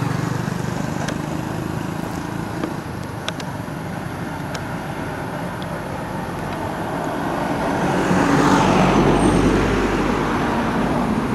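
Road traffic: a steady hum of motor vehicles, with one vehicle passing that grows louder to a peak about nine seconds in, then fades.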